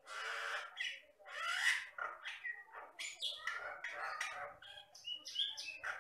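Common myna (jalak batam) singing: a fast, varied run of harsh squawks, chattering notes and short whistled glides with hardly a pause.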